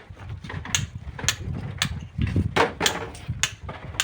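Regular sharp clicks of a hand tool striking stone, about two a second, over a low rumble.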